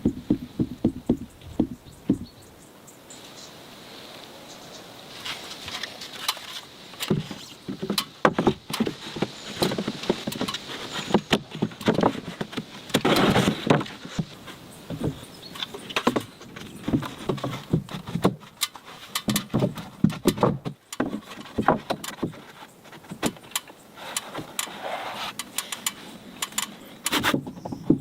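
Construction work on roof timber: irregular knocks, taps and clatter of wooden decking boards being handled and fixed in place, coming in uneven clusters.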